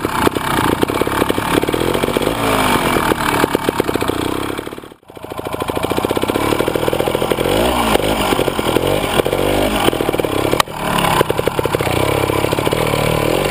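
Beta trials motorcycle engine running and revving up and down in short bursts while riding a section. The sound drops away almost to nothing for a moment about five seconds in, then returns, and there is a single sharp click about ten and a half seconds in.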